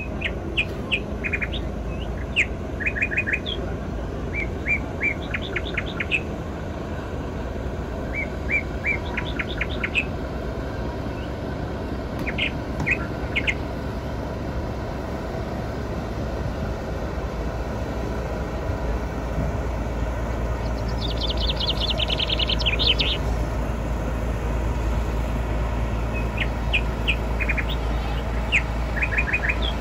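Birds chirping in short series of quick high notes every few seconds, with a longer rapid trill about two-thirds of the way through, over a steady low rumble.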